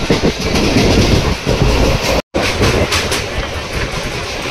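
Passenger train running at speed, its wheels clattering over the rails, loud and continuous. It cuts out for a moment about two seconds in and resumes as the coach passes through a steel truss bridge.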